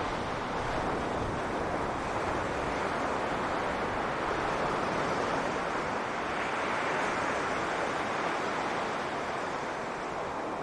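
Sea waves breaking on a beach: a steady wash of surf that swells and eases slowly.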